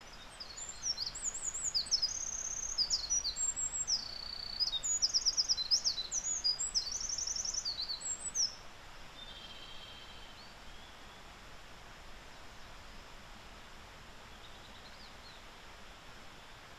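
Eurasian wren singing: one long, rapid song of high-pitched notes and fast trills lasting about eight seconds, ending abruptly. After it, a few faint distant bird notes over steady outdoor background noise.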